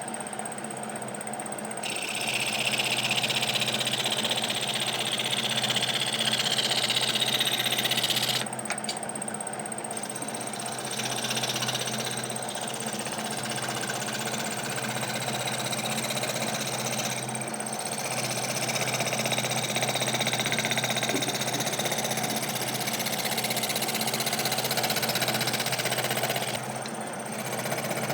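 A small electric carving tool running steadily and grinding into wood in passes of several seconds each. The grinding breaks off briefly about two seconds in, around eight and a half seconds, and again near the end.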